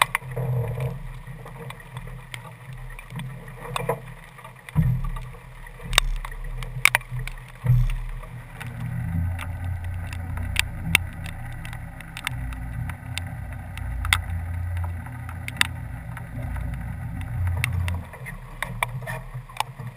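Sailboat underway: a low rumble of water and wind with scattered sharp clicks and knocks from the boat's gear. From about nine seconds in, a steadier low hum joins, then drops away near the end.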